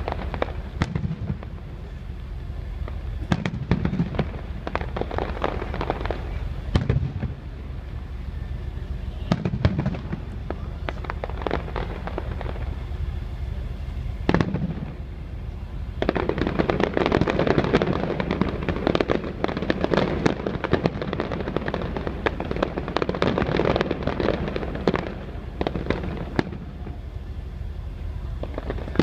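Aerial fireworks shells bursting overhead: a string of separate booms and bangs, then from about halfway through some ten seconds of bursts packed close together before it thins out again.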